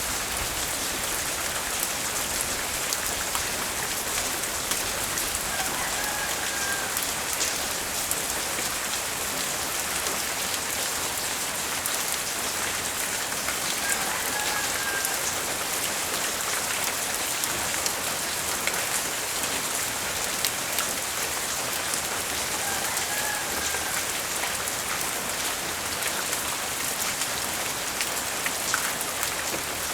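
Steady light rain falling, with many individual drops striking nearby surfaces. A faint short high tone recurs about every eight seconds.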